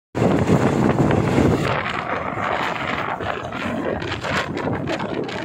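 Train running along the track: a steady rumble with wind buffeting the microphone, a little louder in the first second and a half.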